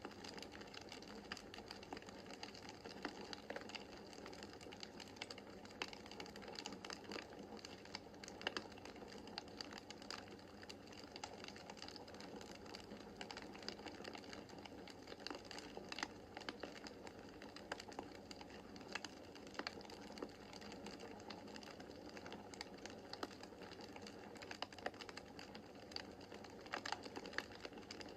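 Wood fire in a fireplace crackling: a dense, irregular run of small sharp clicks and snaps over a soft hiss, with a few louder pops now and then.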